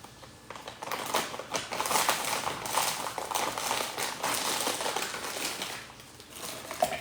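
Dense crinkling and clicking from smoothie ingredients and their packaging being handled, starting about a second in and dying away near the end.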